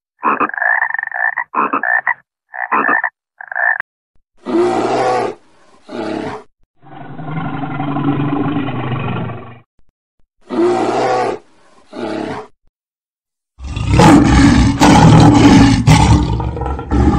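A frog croaking in a run of short calls. Then a brown bear growling: two short growls, a longer growl, then two more short ones. Over the last few seconds a lion roars, the loudest sound of all.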